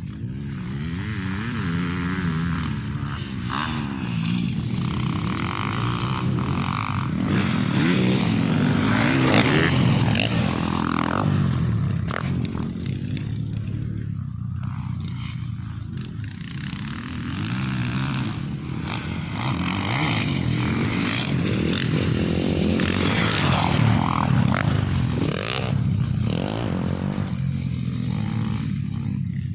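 Engine of an off-road vehicle on a dirt track, revving up and easing off over and over, with rattling and scraping along the way.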